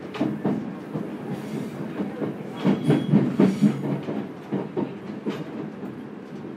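Running sound inside a JR Kyushu YC1-series hybrid railcar, heard from above the traction motor: a steady rumble with wheels clicking over rail joints. Over halfway through it swells into a louder stretch with a low droning tone.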